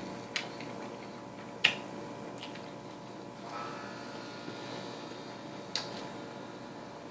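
A person chewing a big mouthful of burger, with a few sharp wet mouth clicks, the loudest about a second and a half in, over a faint steady hum.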